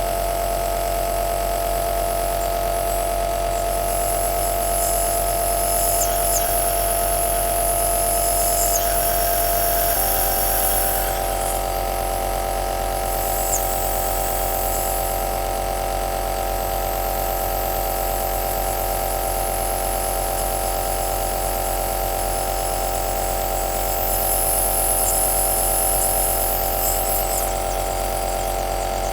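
Compressor nebulizer running steadily: a constant motor hum with a hiss of air above it that swells now and then. The hum's pitch steps up slightly about ten seconds in.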